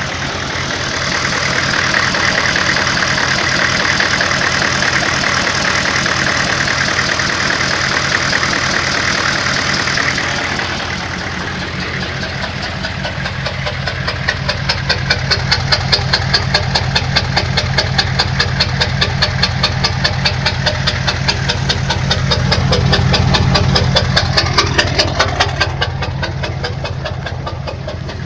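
6.5-litre diesel V8 truck engine idling with a loud, regular knock that comes through clearly from about halfway in, several knocks a second. The owner cannot tell whether it is a stuck injector or a rod knock.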